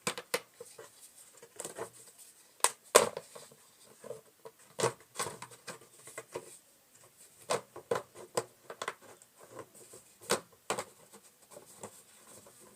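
Irregular taps, knocks and short scrapes of hands and tools working a plastic drain pipe and its fittings, with one louder knock about three seconds in.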